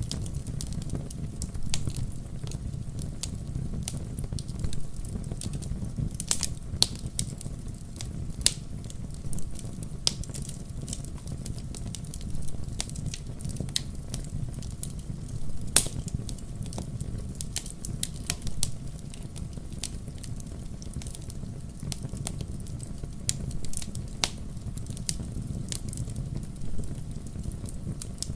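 Fireplace wood fire crackling: irregular sharp pops and snaps over a steady low rumble, with one louder pop about halfway through.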